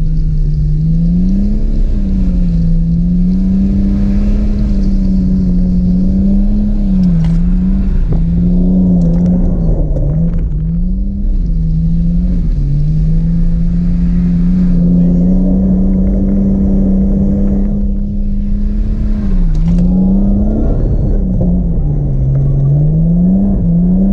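A car engine held at high revs throughout, its pitch repeatedly dropping and climbing back as the throttle is worked through a drift on a wet skid pad.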